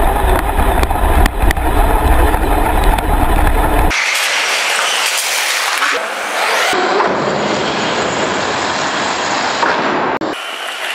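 Radio-controlled cars being driven, a steady noisy run of motor, tyres and rough ground. The sound changes abruptly about 4, 7 and 10 seconds in as separate driving clips are cut together.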